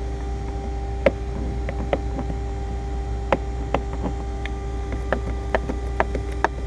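Irregular light clicks and taps of hand work on car trim, about a dozen, spread unevenly, over a steady machine hum.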